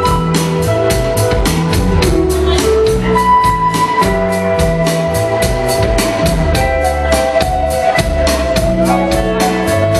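A band playing an instrumental passage of a song: a steady drum beat with about four cymbal strikes a second, over bass and held sustained notes.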